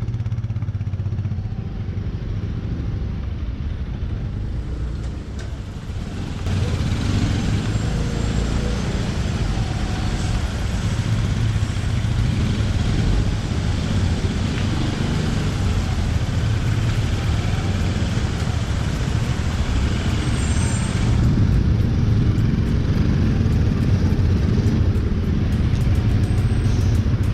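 Steady road noise of a ride on a two-wheeler, with vehicle and traffic sound; it gets louder about six seconds in.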